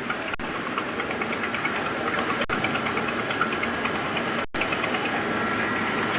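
Steady mechanical running noise with a fast, fine ticking and a faint steady whine, cut off for an instant about four and a half seconds in.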